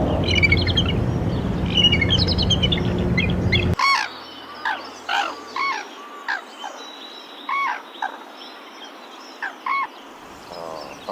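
Birds calling: quick high chirps over a low steady hum, then, after a sudden cut nearly four seconds in, a string of short rising-and-falling calls spaced about a second apart.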